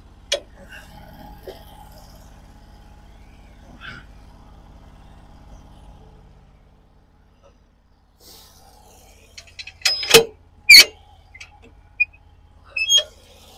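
A white oak log being turned over on a sawmill bed, with two loud knocks about ten seconds in and a few lighter clicks after. A faint steady hum sits under the first half and fades out.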